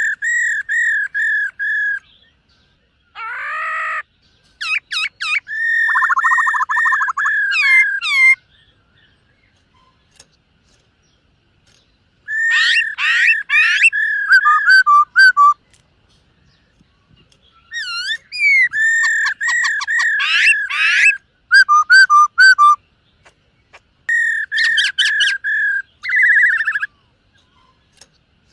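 Black-throated laughingthrush singing: several bouts of rapidly repeated clear whistled notes with a few seconds of silence between them, and one short buzzy phrase about three seconds in.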